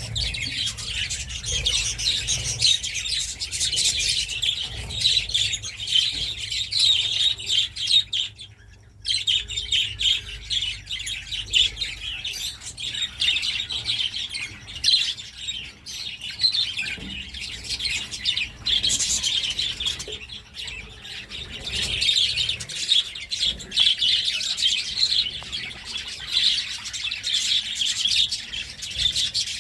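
Budgerigars chattering and chirping continuously, many rapid high calls overlapping, with a brief lull about nine seconds in.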